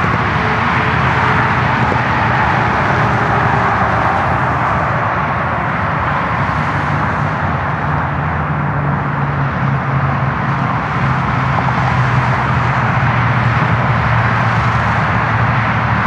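Steady freeway traffic noise: a continuous rush of passing vehicles with a low, even engine hum underneath.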